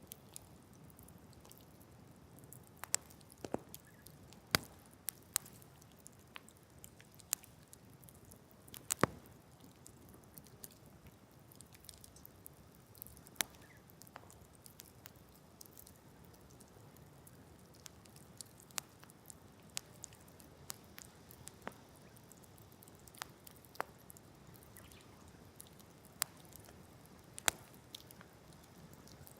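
Wood campfire crackling, with irregular sharp pops and snaps over a faint steady hiss; the loudest pops come about four and nine seconds in.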